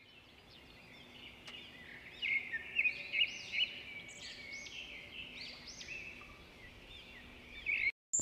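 Small birds singing: a run of quick, rising-and-falling chirps that comes in about two seconds in over a faint steady background.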